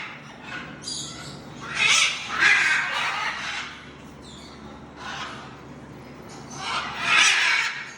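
Parrots squawking: harsh, screechy calls, loudest about two seconds in and again near the end, with quieter calling between.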